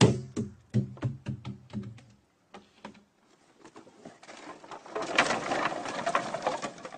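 Fuel glugging out of a 5-gallon can in quick rhythmic pulses for about two seconds, then a steady splashing hiss as it pours onto the woodpile from about four seconds in.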